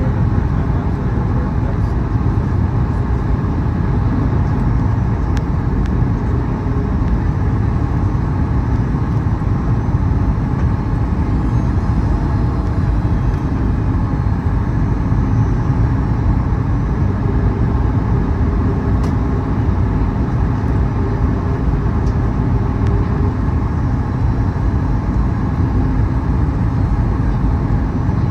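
Steady low rumble of engine and airflow noise inside the cabin of a Boeing 737 MAX 8 airliner in flight, holding level throughout.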